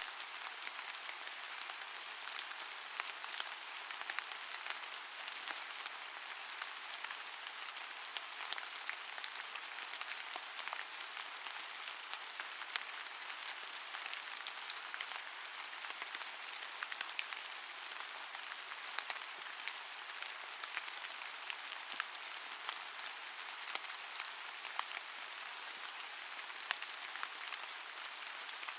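Faint, steady rain: an even hiss of rainfall with many small scattered drop ticks.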